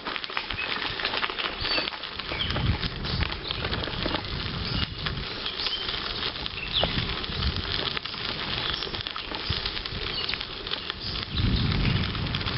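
Bicycle tyres crackling over a gravel towpath, with gusts of wind rumbling on the microphone and short bird chirps. The rumble is strongest near the end.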